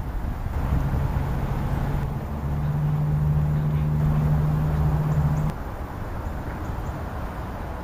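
A low steady engine-like hum over outdoor rumble. It steps up in pitch about two and a half seconds in and cuts off suddenly about halfway through.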